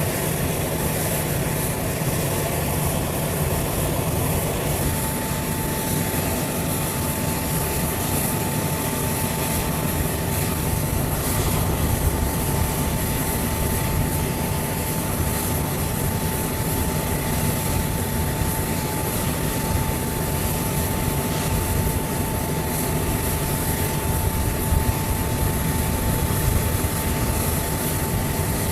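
Aircraft engines running with a steady noise; a thin, steady whine joins about five seconds in and holds.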